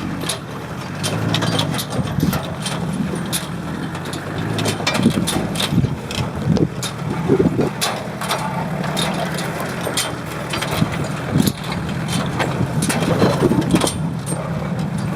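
Four-wheel-drive vehicle's engine running steadily at low revs, with frequent short knocks and clunks over it.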